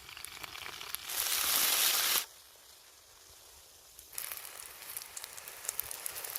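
Food sizzling over a campfire, with scattered crackles. A louder burst of sizzling about a second in lasts about a second and cuts off sharply. After a quieter stretch the sizzling and crackling come back, a bit over four seconds in.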